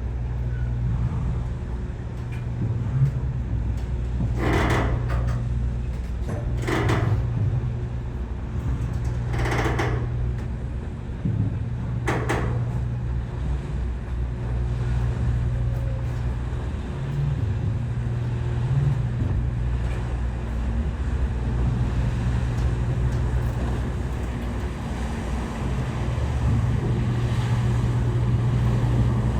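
Ferry Furutaka's engines running with a steady low drone, with four short, higher sounds in the first twelve seconds or so.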